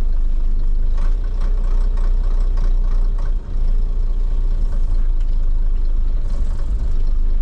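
Scania 93M's nine-litre six-cylinder diesel running steadily at a low, even note, with a few faint ticks over it.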